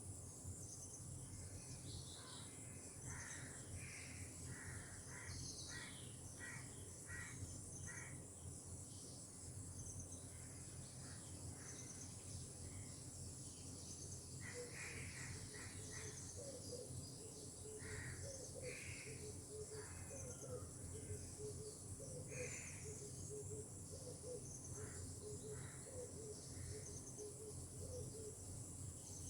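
Birds calling in series of short, repeated notes over a steady, high chirring of insects. From about halfway through, a lower call repeats rapidly underneath.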